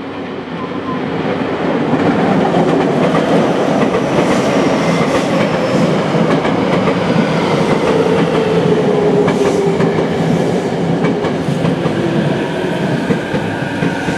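Tokyo Metro 05 series electric train pulling into the station and slowing to a stop. It grows loud over the first two seconds as it comes alongside, with wheels clicking over rail joints and a whine that falls in pitch as it brakes.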